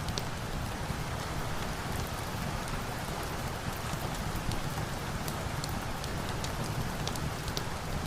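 Steady rain, an even hiss with a low rumble underneath, with scattered small sharp crackles throughout.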